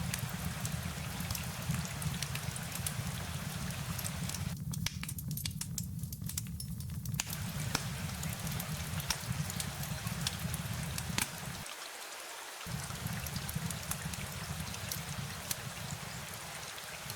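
Steady rain falling, with many separate drops ticking over a low, even rumble; the rumble drops out briefly about twelve seconds in.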